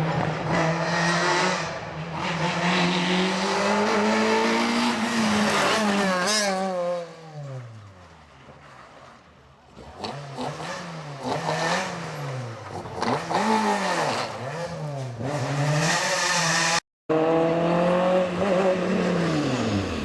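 Rally car engines at high revs on a special stage. One car runs hard and its pitch falls away as it passes and fades about seven seconds in. Then a car accelerates with its revs rising and dropping repeatedly, and after a brief cut another car runs at high revs with its pitch dropping near the end.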